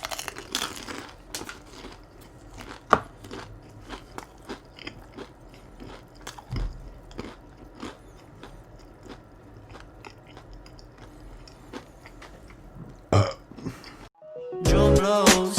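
Close-miked chewing and biting of food, with many short wet mouth clicks and crunches, one louder about three seconds in and another near the end. The sound cuts off suddenly and music begins just before the end.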